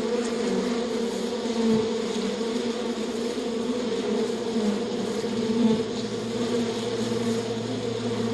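Bees buzzing in a steady, slightly wavering drone.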